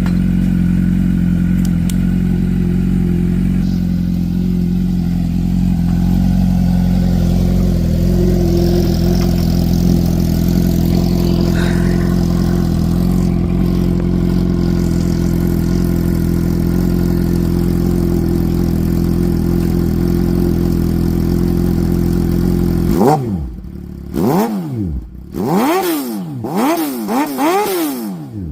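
2009 Suzuki GSX-R750's inline-four engine idling steadily through an M4 Street Slayer full exhaust. Near the end it is revved in a series of quick throttle blips, the pitch rising and falling several times.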